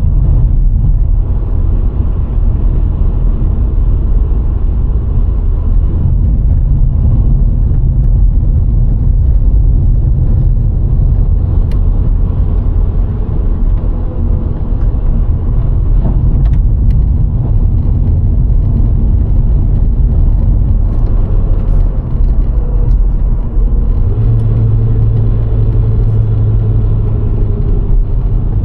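VW Golf IV 1.6 driving along a road: steady rumble of tyres, engine and wind, with a few faint ticks. Near the end a low hum swells for a few seconds.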